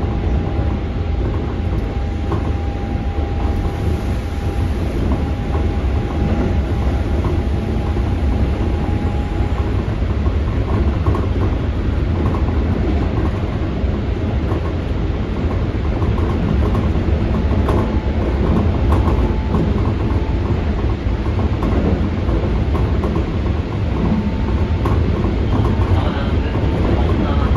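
Keikyu 600 series electric train with Toyo GTO-VVVF traction running at speed, heard from inside the car: a steady, heavy rumble of wheels on rail with scattered rail-joint clicks. A thin steady whine rides over it for the first ten seconds or so.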